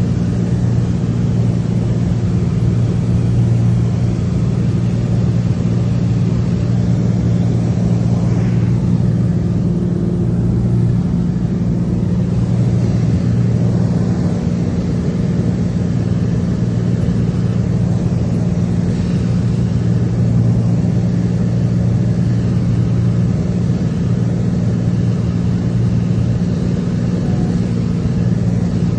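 Aircraft engine drone, a steady loud hum with several fixed low tones that hold the same pitch throughout.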